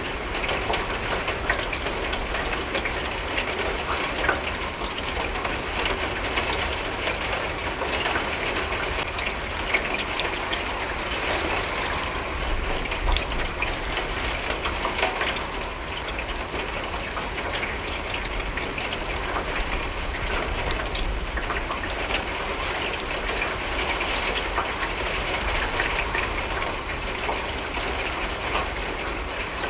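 Steady rain on a window, a dense patter of drops with many small ticks and a low rumble underneath.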